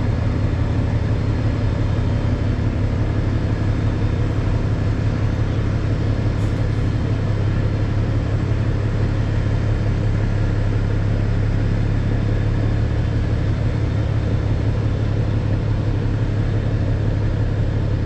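Heavy rotator wrecker's diesel engine running steadily at one constant speed, a low even drone with no revving or pauses.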